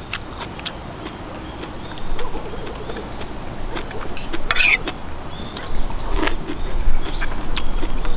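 A small bird chirping in quick runs of short, high notes, over light clicks and a clatter of metal utensils against a stainless bowl.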